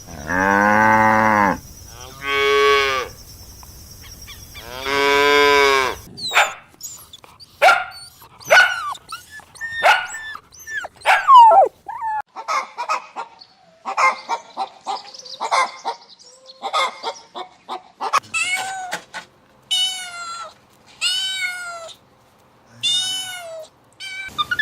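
A cow mooing three times in long, low, drawn-out calls, followed by a rapid string of short, sharp animal calls and then four longer rising-and-falling calls from other domestic animals.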